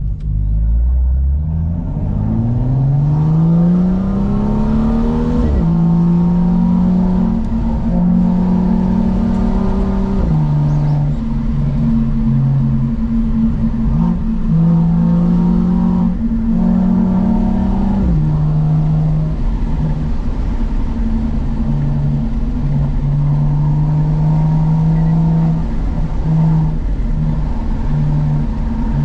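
BMW M2's N55 turbocharged straight-six through a Remus aftermarket exhaust, accelerating with a steadily rising pitch for a few seconds, dropping sharply at an upshift, then running at fairly steady revs with small changes and brief dips in throttle.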